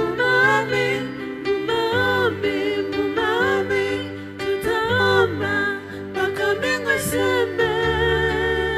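Slow gospel worship song: a solo voice sings bending, ornamented phrases over sustained bass and keyboard chords that change every few seconds.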